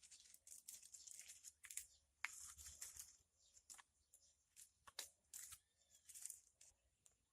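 Thin twigs being laid by hand onto a banana-leaf and toilet-paper fire lay: faint, scattered crackles and rustles of twigs and leaves shifting against each other.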